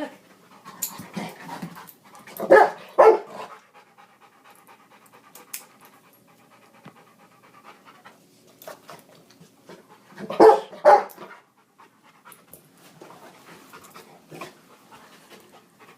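Dog panting hard while worrying a dropped metal padlock on the floor, with scattered light clicks and scrapes. Two loud double bursts of breath or snorting come a few seconds in and about ten seconds in.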